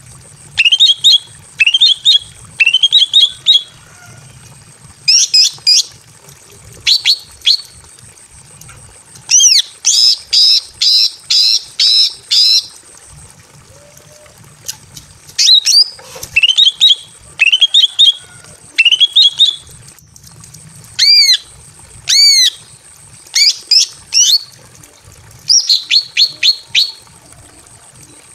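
Female green leafbird (cucak ijo) calling in breeding condition: loud, sharp whistled chirps in short groups, some sweeping upward, one a quick run of five or six notes, a few arched notes near the end, with short pauses between groups.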